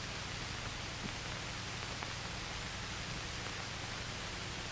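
Steady hiss and low hum of an old film soundtrack with no narration, broken by a couple of faint clicks.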